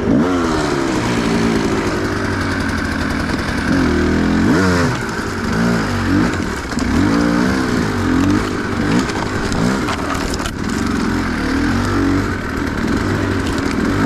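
Enduro motorcycle engine revving up and down repeatedly under the throttle, its pitch rising and falling every second or so, as the bike works its way up a slope.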